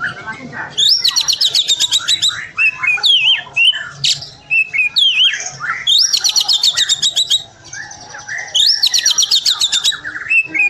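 Oriental magpie-robin (kacer) singing loudly and insistently. A fast rattling run of high notes comes back three times, with varied slurred whistles between the runs.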